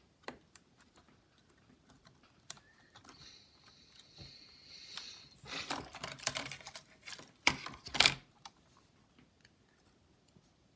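Small clicks and light knocks of plastic laptop parts being handled while a connector is worked into place, with a scraping rustle a few seconds in and a cluster of louder knocks about six to eight seconds in.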